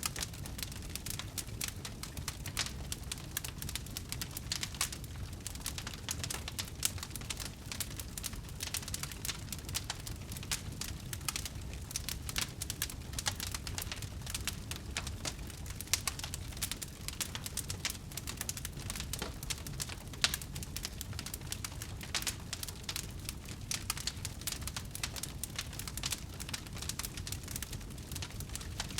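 Wood fire burning with a dense, continuous crackle of small snaps over a low rumble, and a couple of sharper pops.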